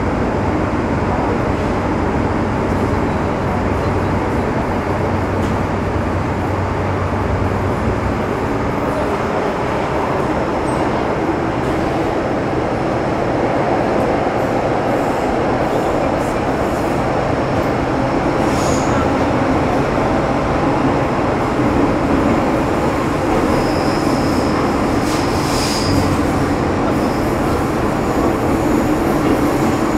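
Running noise inside an MTR Metro Cammell M-Train car (C115, CM-Stock) with GEC GTO chopper traction, running steadily at speed through the tunnel. It grows slightly louder through the second half, and a brief high wheel squeal comes late on.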